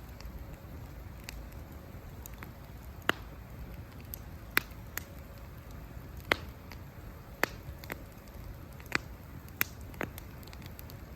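Campfire of burning wood crackling: about eight sharp, irregular pops over a steady low rush of the fire.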